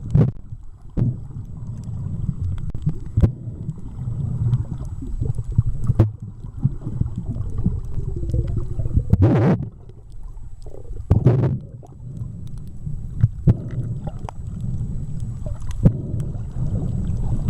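Underwater recording from a snorkeller's camera: a steady, muffled low rumble of water moving, broken by a few short rushes of noise, the loudest about nine and eleven seconds in.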